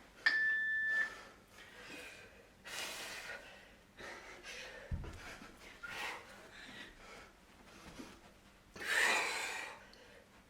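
A short, steady electronic beep from an interval timer marks the start of the work interval. Heavy breathing follows through the exercise, with a dull thud about five seconds in.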